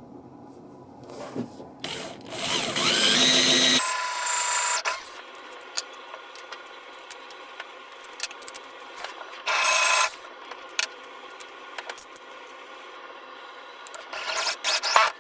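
Electric power tool in woodworking: its motor winds up with a rising whine and runs loudly for a few seconds, then comes several short trigger bursts, the last ones near the end.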